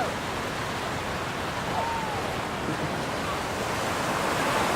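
Ocean surf washing steadily on a beach, with wind on the microphone.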